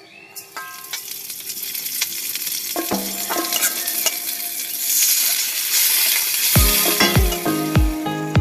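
Vegetables stir-frying in a hot wok: oil sizzling with the scrape and clink of a metal spatula stirring, the sizzle growing louder toward the middle. Background music with a thudding beat comes in over it near the end.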